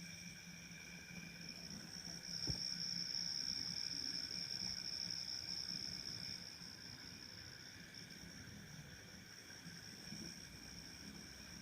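A chorus of night insects chirring steadily outside at several high pitches, the highest and loudest swelling for a few seconds after about two and a half seconds. A faint low hum lies beneath, and there is a single soft knock about two and a half seconds in.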